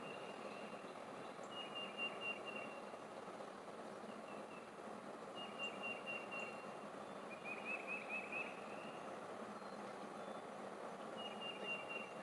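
A songbird singing short, high, trilled phrases, about five times, over a steady outdoor background hiss.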